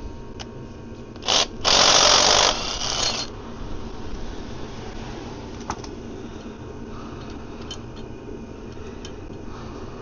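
Cordless power tool run in two short bursts near the start, the second about a second long and trailing off, spinning out a bolt on the underside of the gearbox.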